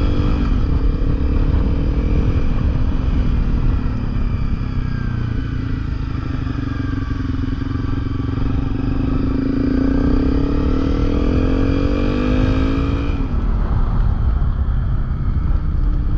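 Honda CRF250L's single-cylinder engine running while riding, the engine note sinking at first, then climbing slowly as the bike gathers speed, and dropping away suddenly about thirteen seconds in. A heavy low rumble runs underneath.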